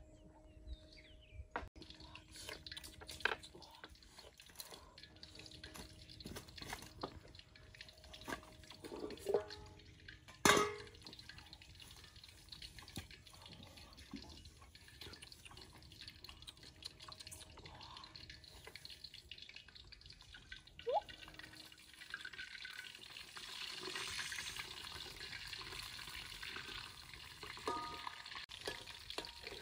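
Scattered clinks and knocks of cookware being handled, one sharp knock about a third of the way through. Then, from about three-quarters of the way in, the steady sizzle of food frying in a wok as it is stirred.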